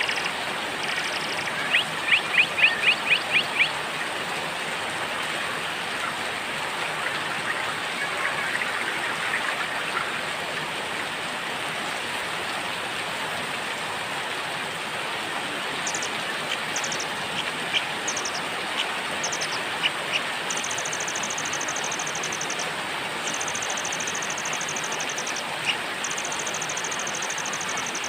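Steady rain hiss with small songbirds calling over it. About two seconds in, a quick run of about eight loud notes is the loudest sound. From about halfway on come repeated very high, thin trills and scattered short chirps.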